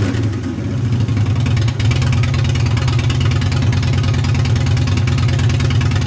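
2008 Harley-Davidson Dyna Low Rider's Twin Cam 96 V-twin idling steadily through SuperTrapp Mean Mothers II exhaust.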